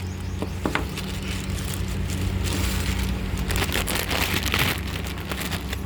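Rustling and handling noise of packaging being opened around a new brake caliper carrier, in uneven noisy spells with a few light clicks, over a steady low hum.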